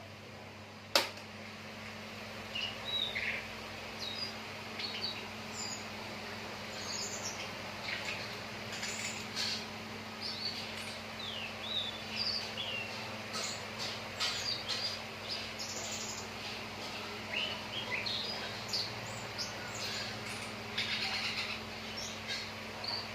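Ledekan laut songbird chirping and twittering in short, high notes and brief trills throughout. A single sharp click comes about a second in, over a steady low hum.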